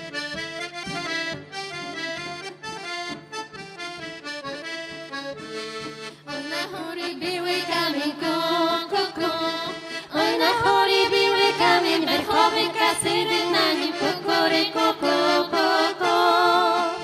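Accordion playing a folk tune. About six seconds in, a second, wavering melody line joins it, and the music gets louder about ten seconds in.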